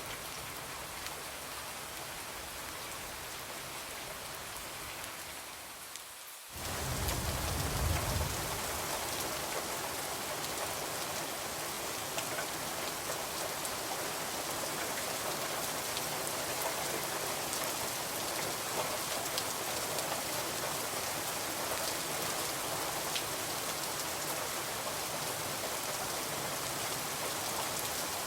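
Steady rain falling on a window, with scattered drop ticks. About six seconds in it fades briefly, then cuts back in louder with a low rumble for a couple of seconds, and carries on at the louder level.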